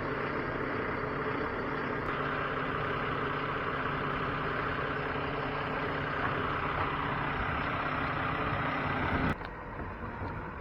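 Heavy truck engine running steadily at idle, with a steady hiss over it from about two seconds in; the sound drops off abruptly about nine seconds in.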